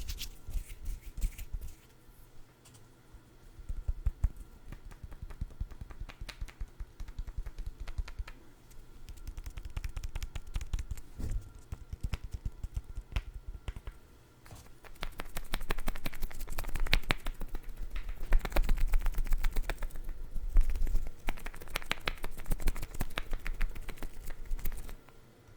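Food items handled close to the microphone: rapid crackling and tapping, sparse at first and much louder and denser in the second half, stopping shortly before the end.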